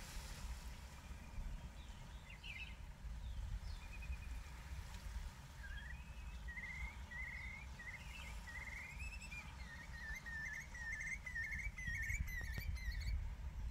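Faint outdoor ambience with a low steady rumble, and a bird singing from about five seconds in: a run of short, quickly repeated notes, about two a second.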